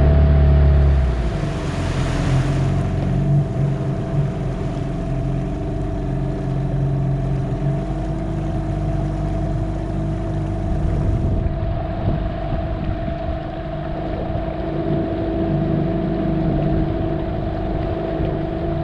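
Outboard motor of a small boat running steadily under way.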